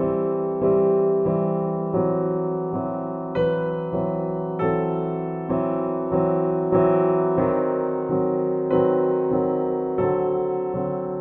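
Soft background piano music, gentle chords struck about every half-second to second and left to fade.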